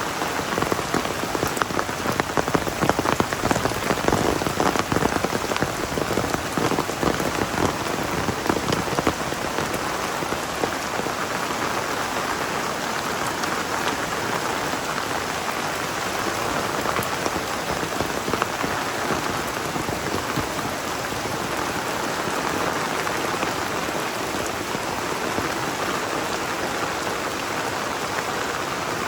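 Heavy rain falling steadily as a dense hiss, with close, sharp drop impacts that are thickest for the first several seconds and then settle into an even downpour.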